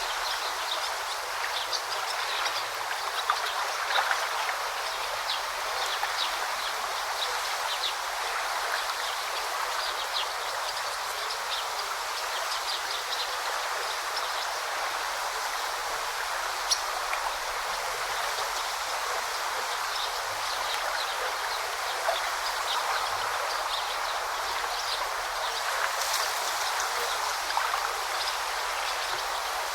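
A shallow stream babbling steadily over stones, an even rush of water flecked with many small, quick ticks.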